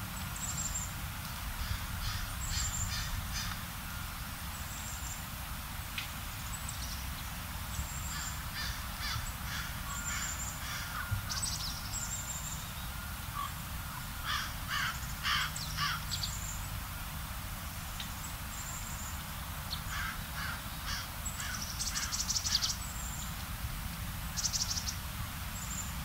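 Birds calling from a tree: short, thin, high notes scattered throughout, and several bouts of quick repeated, harsher calls.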